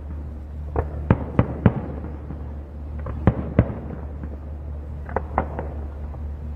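Fireworks display: aerial shells bursting with sharp bangs in quick clusters of two to four, about ten in all, over a steady low hum.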